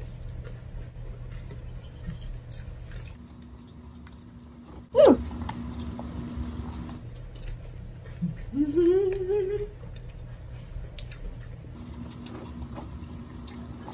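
People chewing and biting bread quickly, with small wet mouth clicks. A short falling squeal about five seconds in is the loudest sound, and a rising hum comes near nine seconds.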